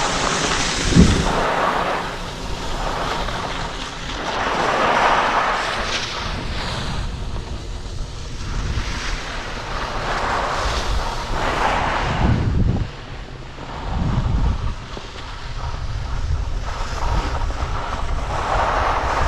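Wind buffeting the microphone during a downhill ski run, over the hiss of skis sliding on snow. The hiss swells and fades every few seconds through the turns.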